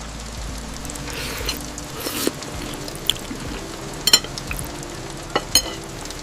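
Food sizzling in a frying pan as it is stirred, with several sharp clinks of a utensil against the pan spread through.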